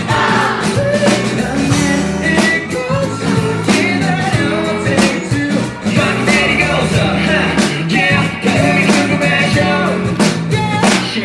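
Live rock band playing a song: drums keeping a steady beat under guitar, bass and a singing voice.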